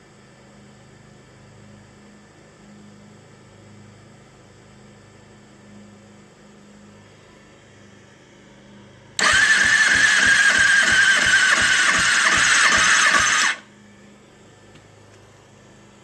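2009 Kawasaki ZX-6R's inline-four cranking over on its electric starter for a compression test on cylinder 3, for about four seconds from about nine seconds in: a loud starter whine with even pulses about five times a second, then cutting off sharply. A low steady hum runs underneath before and after.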